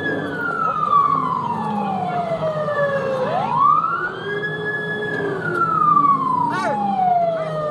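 Police car siren wailing in slow cycles: each one rises quickly in pitch, holds briefly, then glides down over a few seconds, about twice, over a low steady rumble.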